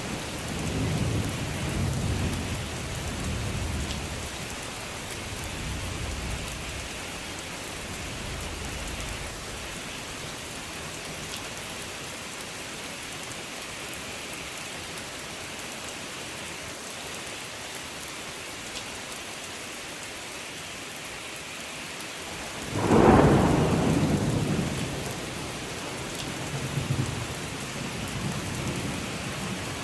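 Steady rain hissing, with thunder: a low rumble dies away over the first few seconds, then a sudden loud thunderclap about three-quarters of the way in rolls on for several seconds.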